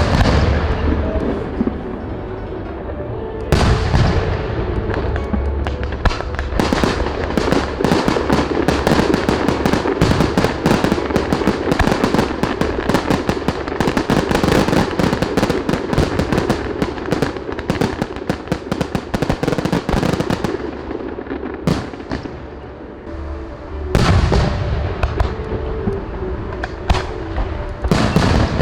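Fireworks display: loud shell bursts booming at the start and about three seconds in, then a long run of dense crackling from many small bursts, then more booming bursts near the end.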